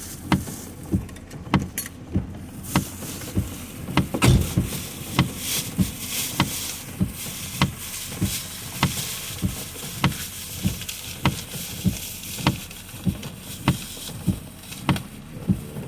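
A car's turn-signal indicator ticking steadily, about one and a half clicks a second, with rain and windshield wipers swishing behind it.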